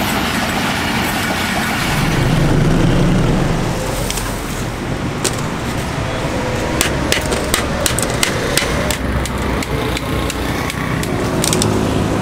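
Passenger train passing, with a steady rumble that swells about two to three seconds in. From about five seconds on, a run of sharp, irregular clicks and taps sounds over the continuing noise.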